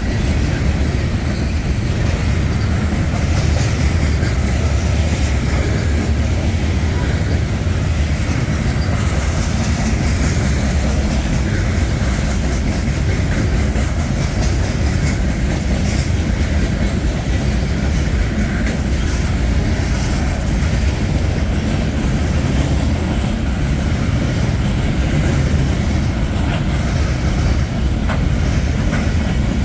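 Freight train cars rolling past close by: a steady, loud rumble of wheels on rail with scattered clicks.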